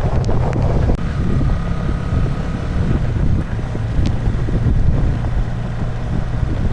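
Wind buffeting the microphone over a steady low engine drone, as from a motorcycle being ridden at speed.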